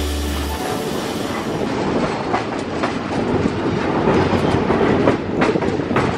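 Alaska Railroad passenger train rolling across a steel trestle bridge: a steady rumble of wheels on rail, with sharp clicks as the wheels pass rail joints, twice about two seconds in and twice again near the end.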